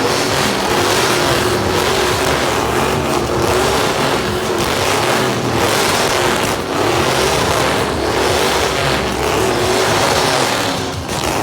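A car doing a burnout: the engine is held at high revs, dipping briefly about every second, over a dense hiss of spinning tyres.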